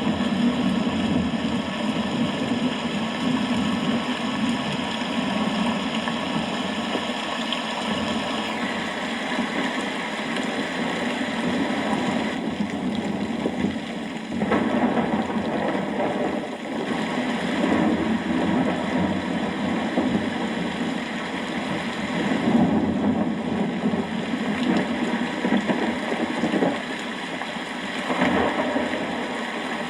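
Steady rain falling, with thunder rumbling in swells several times.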